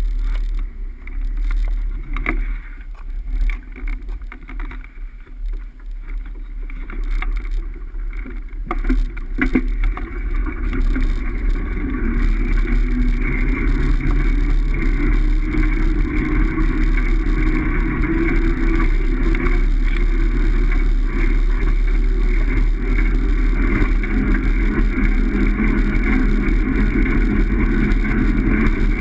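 Wind rushing and buffeting over the microphone of a moving bike, with a deep rumble. It grows louder over several seconds as speed picks up, then holds steady.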